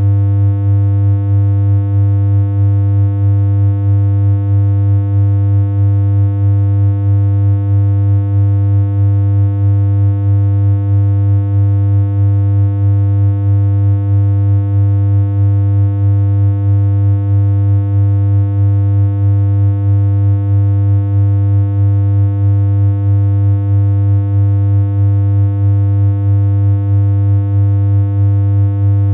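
Continuous synthesized electronic hum: a loud, steady low tone with a buzzy edge and a slight, even pulse in loudness.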